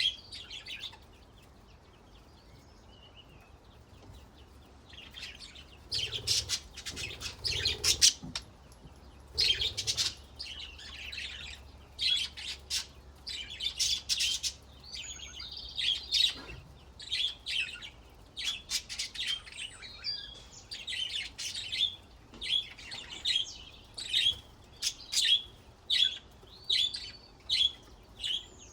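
Budgerigars chirping and warbling in quick, irregular bursts of short high calls. It is quiet for the first few seconds, then a long stretch of chattering song follows.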